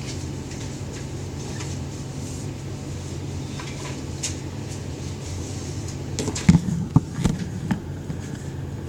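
A steady low hum, with a quick run of knocks and taps about six seconds in, lasting around two seconds.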